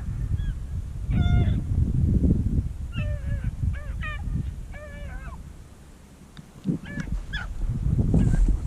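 Beagles baying as they run a rabbit: short, pitched cries come in bunches every second or two, some overlapping, over a low rumble.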